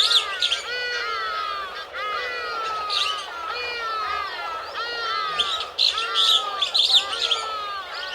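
Forest birds calling. One bird repeats a short note that rises and falls, about twice a second, and other birds chirp higher over it.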